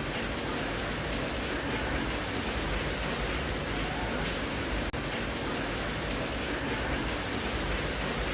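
Steady rain, an even hiss with no separate drops standing out, broken only by a momentary dropout just before five seconds in.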